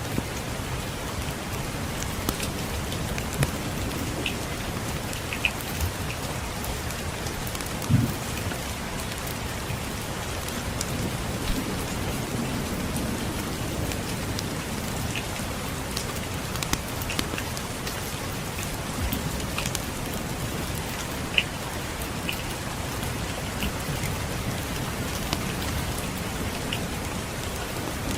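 Steady rain falling, mixed with the scattered pops and crackles of a wood fire burning in a fireplace; one louder pop comes about eight seconds in.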